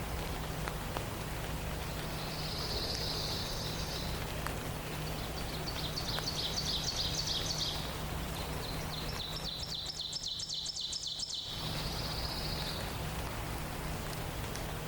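Songbirds singing in a forest dawn chorus: four short, high-pitched phrases, a buzzy one, two quick trills and another buzzy one, over a steady background hiss and a low hum.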